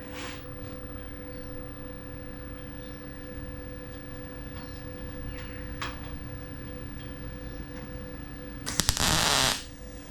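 A steady background hum with a few faint ticks. Then, near the end, a MIG welder fires one short tack weld on a sheet-metal patch panel: a loud, noisy burst of just under a second that opens with a few sharp crackles.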